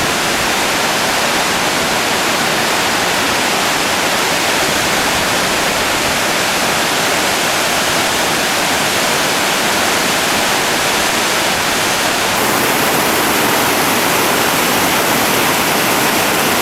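River whitewater rushing steadily over rapids, a loud, even wash of noise. Its tone changes slightly about twelve seconds in.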